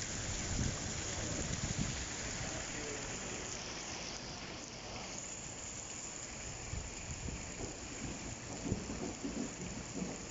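Heavy rain pouring down in a steady dense hiss, with low rumbling swelling near the start and again late on.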